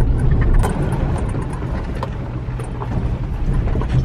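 Ford F-150 pickup driving on a dirt trail: a steady low rumble of engine and tyres, with scattered small clicks and rattles.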